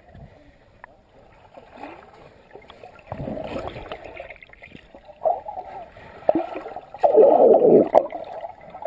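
Water splashing in bursts as swimmers move about in a creek, the loudest splashing about seven seconds in.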